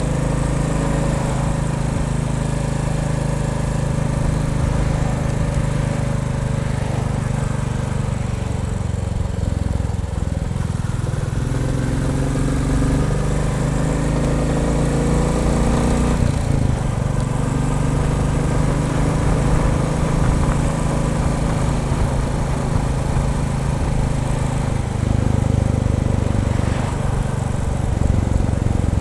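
Royal Enfield Bullet 350 single-cylinder engine running steadily, its revs shifting up and down a few times.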